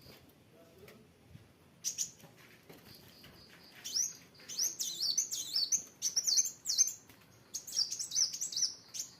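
A kolibri wulung sunbird singing actively. A faint repeated high note and a short call lead into rapid, high-pitched twittering phrases in bursts from about four seconds in.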